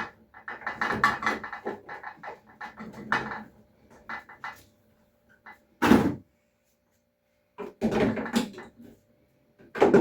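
Clatter and knocks of containers and fridge parts being handled and set down, with a sharp thunk about six seconds in and more clatter near the end.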